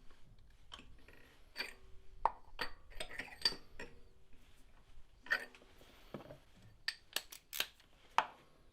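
Scattered light metallic clicks and clinks of a spark plug socket and tools as spark plugs are turned by hand in the cylinder head, each one a short sharp tick at an uneven pace.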